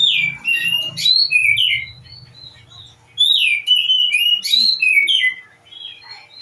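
A songbird singing in two phrases of quick, sliding chirps, the second beginning about three seconds in.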